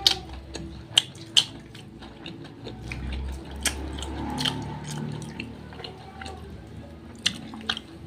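Close-up mukbang eating sounds of fried chicken eaten by hand: wet chewing and lip smacks, with sharp, irregular clicks and crunches about a second apart.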